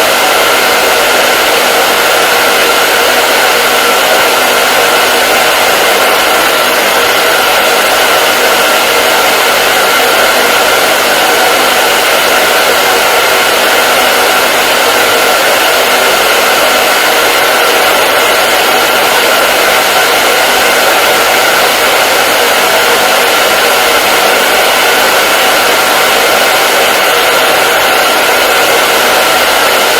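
Hair dryer running steadily: a loud, even rushing of air over the motor's whine, with a steady tone near the middle of the range and no change in speed.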